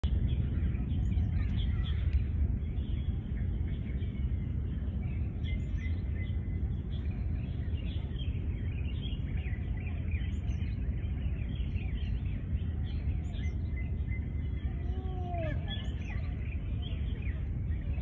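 Birds chirping and twittering, many short overlapping calls throughout, over a steady low rumble. One lower, arching call comes about fifteen seconds in.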